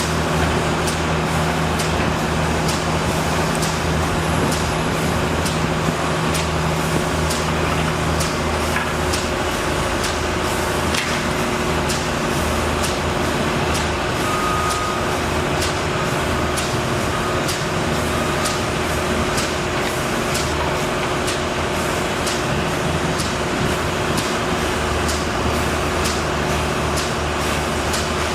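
A large engine running steadily, with a constant hum and a light regular ticking about twice a second.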